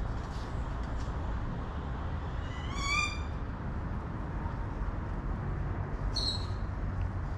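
Two bird calls over steady outdoor background noise: a short, slightly rising whistled call about three seconds in, then a brief high chirp about six seconds in.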